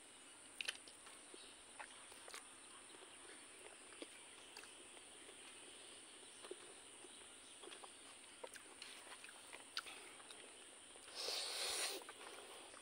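Close-up eating sounds of pork curry and rice eaten by hand: faint scattered clicks and smacks of chewing over a steady high hiss, with one brief louder rustle near the end.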